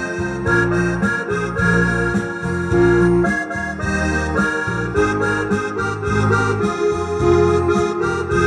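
Yamaha PSR-S670 arranger keyboard playing a Gypsy song, an accordion-like voice carrying the melody over a steady auto-accompaniment of pulsing bass, chords and a regular drum beat.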